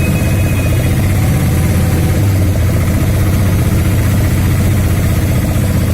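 A vehicle engine idling steadily, with a fast, even low pulsing.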